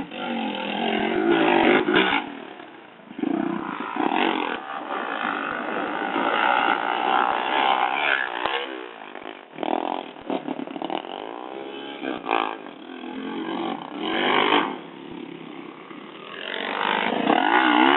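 Motorcycle engines revving and running, the pitch rising and falling as the bikes ride past and accelerate, growing louder several times.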